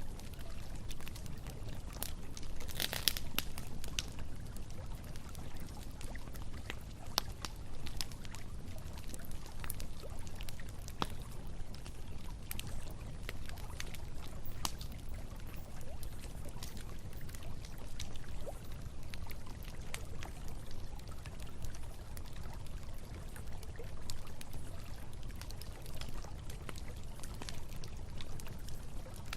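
Campfire crackling with scattered sharp pops over the steady rush of flowing river water, with a short louder burst of crackling about three seconds in.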